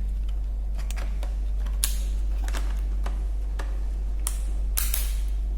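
Scattered light plastic clicks and taps from a laptop battery being fitted into a Dell Vostro 15 3546 laptop, with one sharper click about two seconds in. A steady low electrical hum runs underneath.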